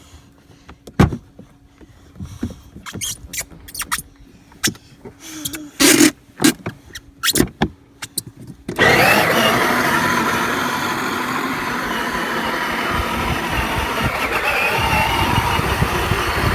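Scattered plastic clicks and knocks, then about nine seconds in a battery-powered ride-on toy Jeep's electric motor and gears start suddenly and run steadily as it drives.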